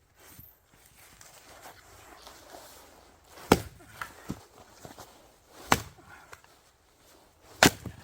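Axe splitting firewood: three heavy strikes about two seconds apart, each followed by a few smaller knocks.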